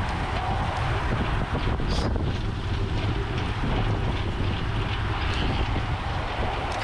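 Steady wind buffeting the camera microphone at riding speed, a constant low rumble with some faint clicks.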